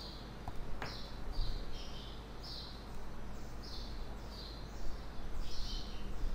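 A bird chirping over and over, each call a short high note dropping to a lower one, about twice a second, over a steady electrical hum. A single click about a second in.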